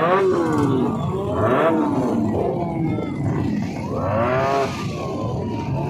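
Vehicle engine being revved several times, its pitch swelling up and falling back with each rev.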